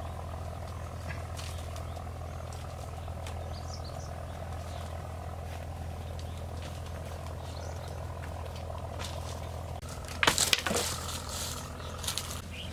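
A steady low mechanical drone, like a motor running, with a brief cluster of sharp knocks and clatter about ten seconds in.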